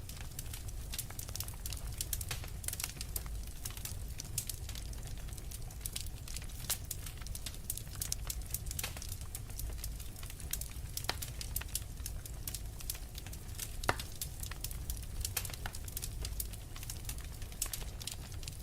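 Wood fire burning in a fireplace: a dense, irregular crackling of small pops over a steady low rumble of the flames, with one sharper pop about fourteen seconds in.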